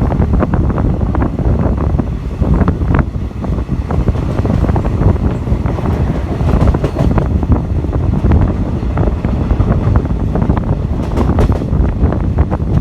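Passenger train running at speed, heard from on board: a steady heavy rumble with many rattling clicks from the wheels and coach, and wind buffeting the microphone.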